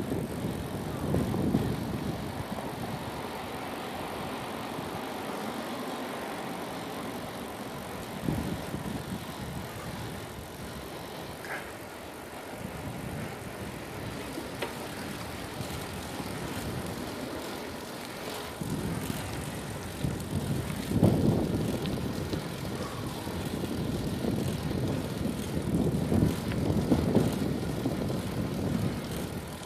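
Bicycle riding noise with wind rumbling on the microphone, a continuous low rumble that swells in uneven gusts, loudest about two-thirds of the way in and again near the end.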